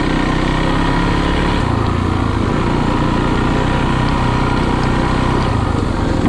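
Small engine running steadily, holding a fairly even speed.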